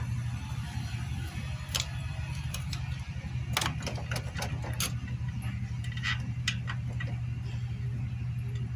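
Metal hand tools clicking and knocking against motorcycle engine parts during a teardown, a few sharp clinks spaced irregularly, over a steady low hum.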